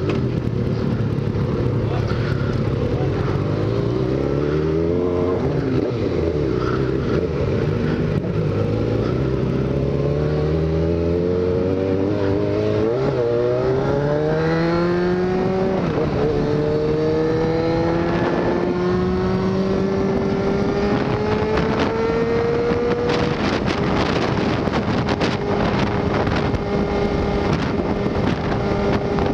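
Motorcycle engine accelerating on the road. Its pitch climbs in steps through a few gear changes, then holds steady at cruising speed.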